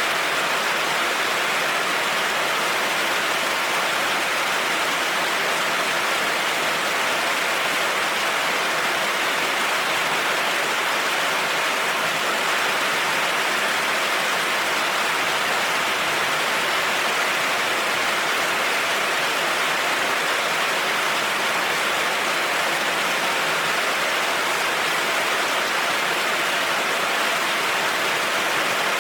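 Heavy rain falling on a road, a steady even hiss.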